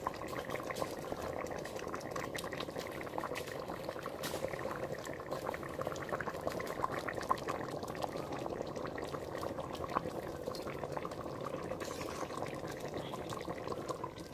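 A pot of chicken soup bubbling at the boil: a steady run of small pops and bubbling.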